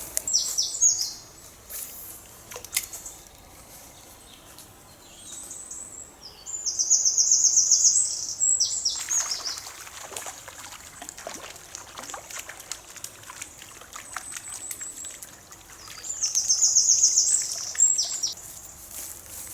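A songbird singing high, rapid trills, the loudest in two long phrases about six and sixteen seconds in, over the trickle of a river.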